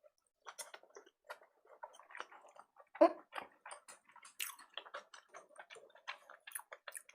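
Close-miked chewing of sushi: irregular wet mouth clicks and smacks, the loudest about three seconds in.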